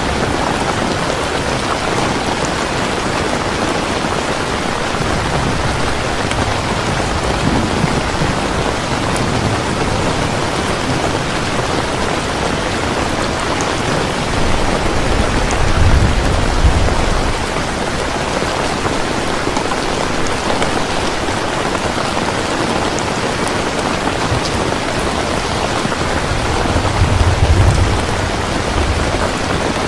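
Heavy rain falling steadily, with low rumbles of thunder about halfway through and again near the end.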